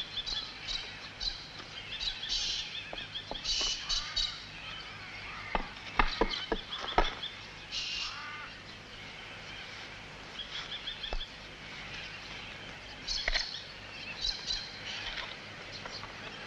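Several birds chirping and trilling in short, repeated phrases, with a few sharp clicks or knocks scattered through; the loudest come about six and seven seconds in.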